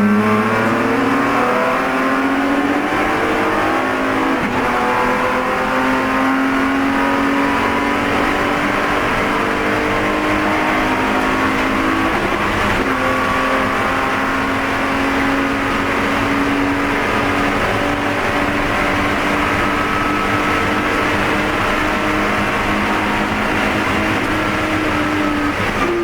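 BMW E46 race car's inline-six engine pulling hard at high revs, its pitch climbing over the first couple of seconds and then holding high and nearly steady, dipping slightly near the end. Heavy road and wind noise runs underneath, as heard inside the car.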